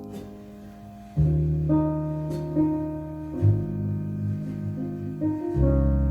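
Recorded music played back through Klipsch Forte III loudspeakers: a piano-led piece with sustained notes, joined by deep bass notes about a second in.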